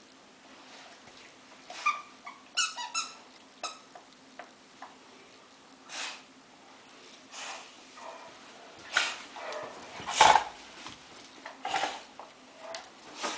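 A squeaky dog toy squeaking several times in quick succession about two to four seconds in, then a dog making a few short, noisy sounds.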